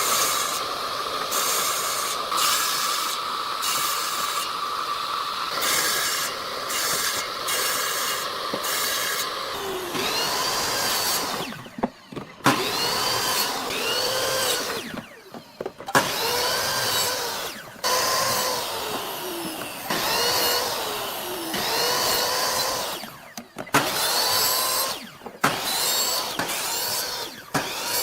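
A power tool on wood, running steadily for about ten seconds, then run in short bursts about every two seconds, its motor pitch rising and falling with each burst.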